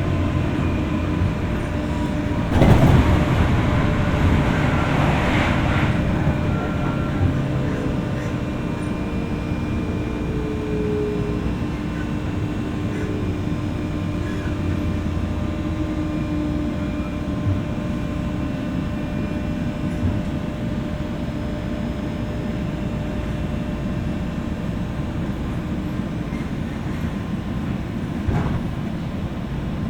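JR West 201 series electric train heard from inside the motor car over its armature chopper control: wheels and track rumble with steady whining tones from the chopper and motors. There is a louder rush of noise about three seconds in that lasts a few seconds.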